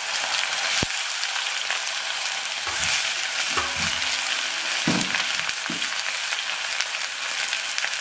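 Sliced ivy gourd sizzling in hot coconut oil in an iron kadai: a steady frying hiss, with a single sharp click about a second in.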